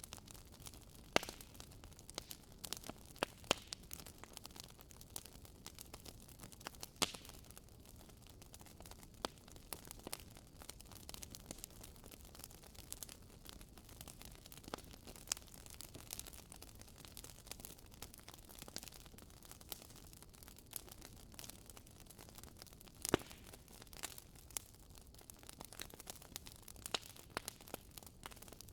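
Wood fire in a fireplace crackling, with irregular sharp pops scattered throughout. The loudest pops come about a second in, at about seven seconds and near twenty-three seconds, over a faint low rumble.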